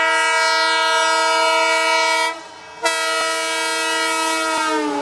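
A train's air horn sounding in two long blasts with a short break about halfway through. The second blast sags in pitch as it fades near the end.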